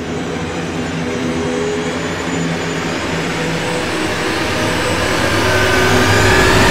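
Comboios de Portugal commuter train pulling in alongside the platform, its rumble growing steadily louder as it comes past, with a thin whine rising near the end.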